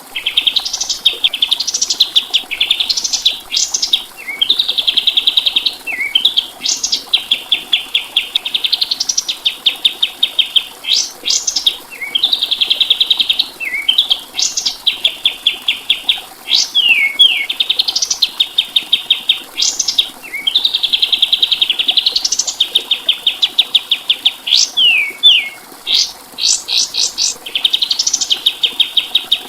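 A kapas tembak songbird singing continuously: rapid buzzy trills alternating with sharp rising whistled notes, repeated in phrases every two to three seconds.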